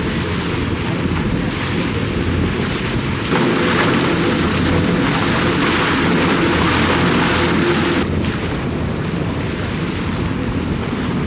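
Motorboat under way: a steady engine hum under the rush of water and wind on the microphone, growing louder about a third of the way in.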